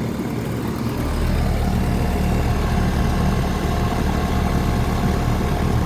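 A new 2025 Rheem Endeavor Line 1.5-ton central air conditioner condenser running, its Copeland compressor giving a steady low hum with the condenser fan; the hum grows louder about a second in and then holds steady. The compressor sounds really nice.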